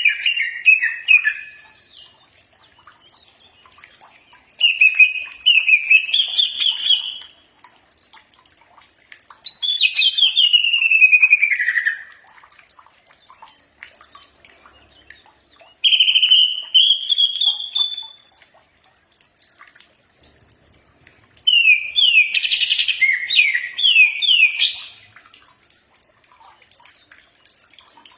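A cucak ijo (green leafbird) singing in loud, rich warbling phrases of about two to three seconds each, with short pauses between them. Some phrases slide downward in pitch and others are rapid trills.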